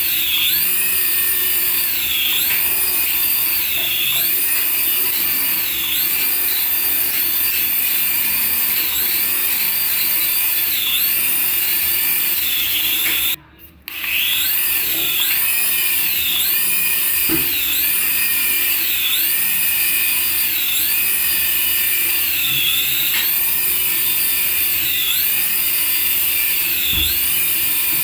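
Battery-powered remote-control toy running with a high-pitched whine that dips and recovers about every one and a half seconds; it cuts out briefly about halfway through.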